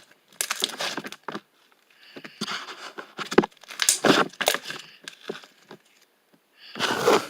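Irregular crinkling and rustling in short bursts with brief pauses, like material being handled close to the microphone.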